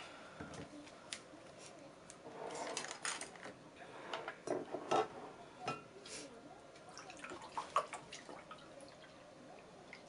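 Scattered light knocks and clinks of tableware handled on a table, irregular and brief.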